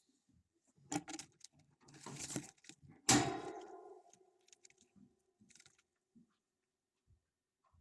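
Scattered scratching and rustling, then a sharp knock about three seconds in that rings on briefly and fades, like something hollow being struck.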